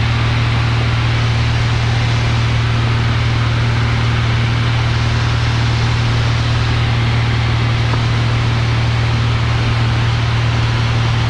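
Cessna 172F's six-cylinder piston engine and propeller running steadily in flight: an even drone with a strong low hum under a wide hiss of engine and airflow noise.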